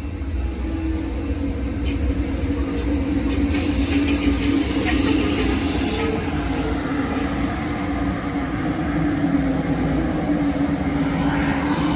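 Amtrak Southwest Chief passenger train rolling past: a steady rumble of wheels on the rails, with a high-pitched wheel squeal for a few seconds in the middle.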